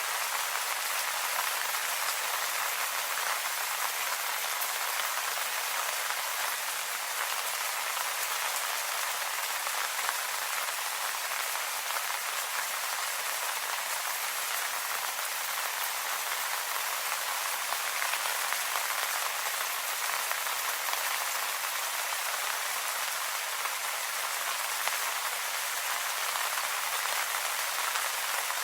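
Steady light rain pattering on leaves, an even hiss with fine drop ticks.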